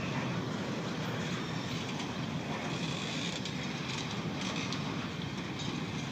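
Double-stack intermodal well cars rolling past on steel wheels, a steady running noise of a freight train in motion.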